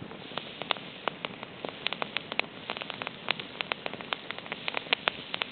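Irregular sharp crackling pops, several a second, over a faint steady hiss.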